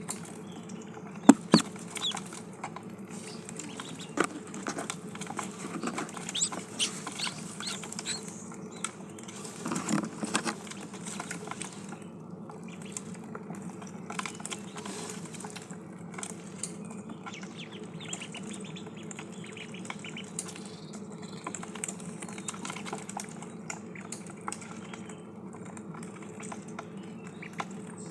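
Ducklings peeping and pecking at food and water, with scattered sharp taps, the loudest about a second in and around ten seconds, over a steady low hum.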